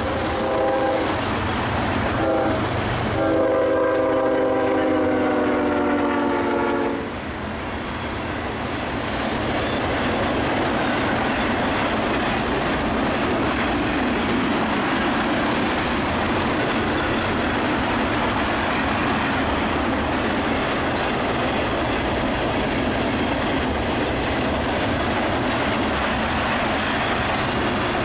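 Freight locomotive horn: a blast that ends about a second in, then a longer blast from about three to seven seconds in. After that, a train of tank cars passing, a steady rumble and clatter of steel wheels on the rails.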